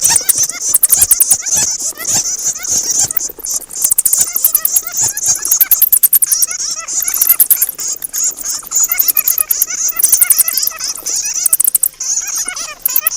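Bats calling: continuous chatter of rapid, high-pitched clicking trills with squeaks underneath.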